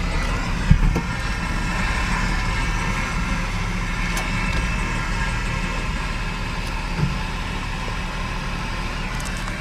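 Car engine idling, heard from inside the cabin: a steady low hum, with a soft knock about a second in and another a couple of seconds before the end.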